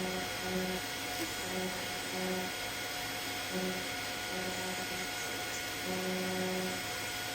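TIG welding arc tacking steel pipe: a steady electrical hum and hiss, with a low buzz that cuts in and out irregularly every half second or so.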